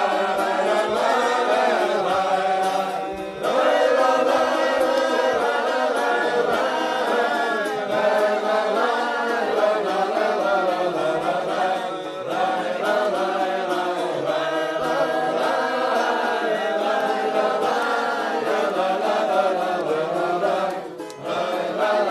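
Wordless choral singing: several voices carry a slow folk-romance melody between verses. The sound dips briefly about three seconds in and again near the end.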